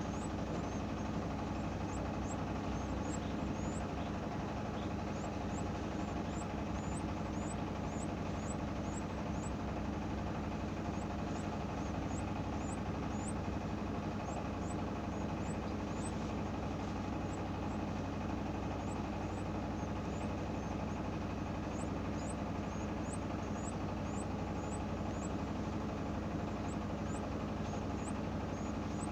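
Steady machine-like hum throughout, with runs of short, very high, quick chirps from canaries on top, several a second, pausing for a few seconds around the middle.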